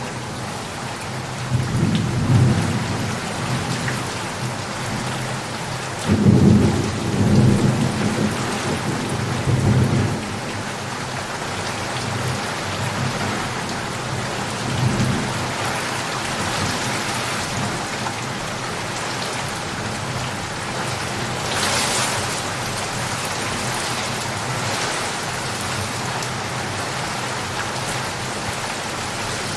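Steady rain falling, with thunder rumbling low through it. The loudest, longest roll comes about six to ten seconds in, and there is a short sharper crack about two-thirds of the way through.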